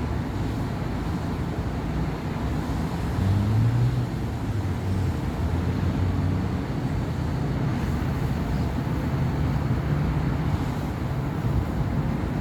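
Steady city road traffic on a busy avenue: a continuous low rumble of car and bus engines and tyres. One vehicle passes louder about three to four seconds in.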